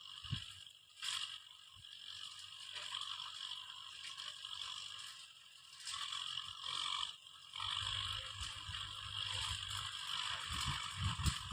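Kubota M6040 tractor ploughing, heard as mechanical clatter and scraping, with a low rumble coming in after about eight seconds.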